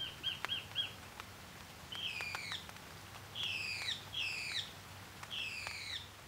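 A bird calling: first a quick run of four short, even notes, then a swooping, falling call repeated four times.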